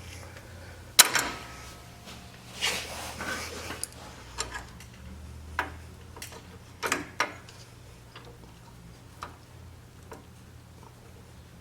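Screwdriver clicking, tapping and scraping against metal while prying a small leaking parking brake seal out of a Hydro Gear transmission. The clicks come at irregular intervals, the loudest a sharp click about a second in, with a short stretch of scraping just under a second long a few seconds in.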